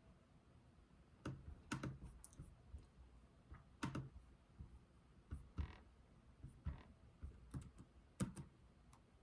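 Slow, sparse typing on a computer keyboard: single keystroke clicks at uneven intervals, starting about a second in, over a quiet room.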